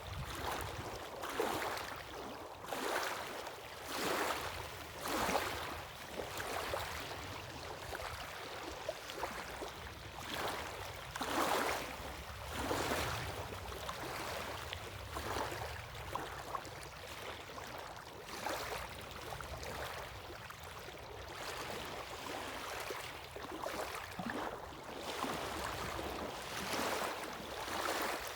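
Sea waves breaking and washing on the shore, one surge after another, each swelling and fading about every second or so.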